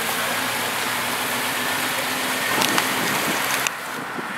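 Supercharged V8 of a tuned Ford Shelby GT500 convertible running at low speed as the car pulls away gently, a steady engine note with no revving. The sound drops suddenly near the end.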